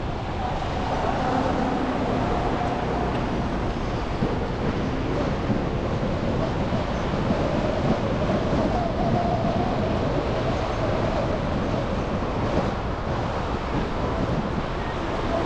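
Steady city traffic noise from a car driving through snowy streets: a continuous hiss of tyres and road noise with a low engine hum, and faint wavering tones in the background.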